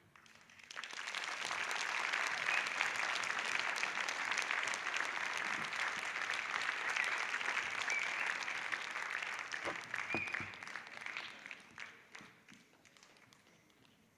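Audience applauding, with a few short shouts or whistles over it; the clapping swells in about a second in, holds, then dies away near the end.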